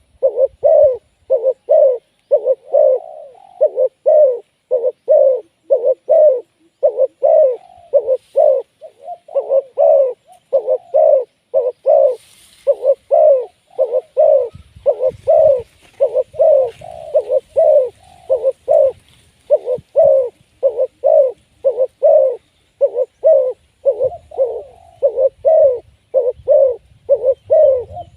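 Spotted dove cooing: a steady, unbroken run of short low coos, about one and a half a second.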